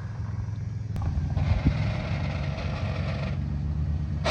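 Car engine running low while the car is moved slowly, with a click about a second in and about two seconds of creaking, scraping noise in the middle; a short sharp sound at the very end.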